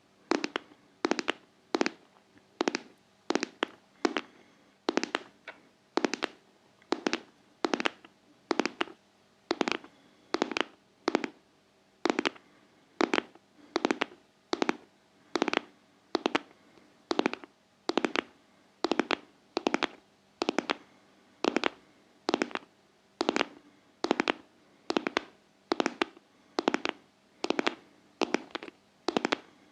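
Fingers tapping in a steady heartbeat-like rhythm: a quick double tap about once a second, each tap a sharp click.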